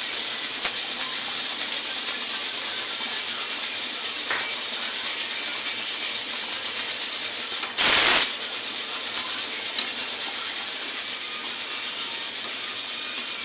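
Steady sizzling hiss of food frying in hot oil in a pan, with one short, much louder burst of sizzle about eight seconds in.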